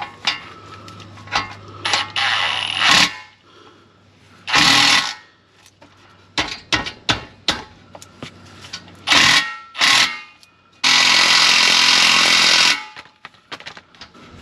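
Impact wrench hammering in repeated bursts, tightening bolts on the exhaust. The longest run lasts nearly two seconds, near the end, with small metal clicks between bursts.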